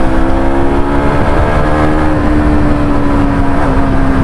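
KTM RC single-cylinder motorcycle engine running under way at steady revs, its pitch easing slowly down, over a dense rushing noise.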